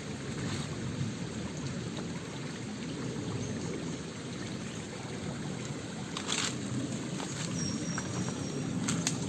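Clear, shallow mountain stream running and trickling over rocks, with a couple of brief knocks about six seconds in and near the end.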